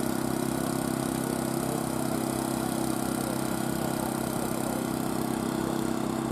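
An engine running steadily, a constant drone with an even low pulse.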